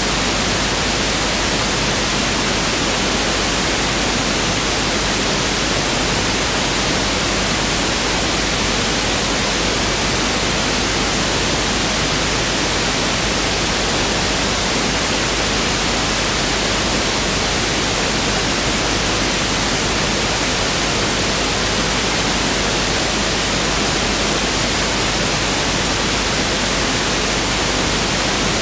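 Pink noise (1/f test signal): a steady, even hiss across the whole audible range, constant in level throughout.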